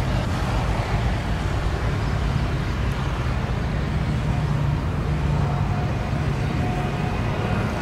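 Airliner engines running with a steady low rumble, with a faint steady whine joining in about the middle.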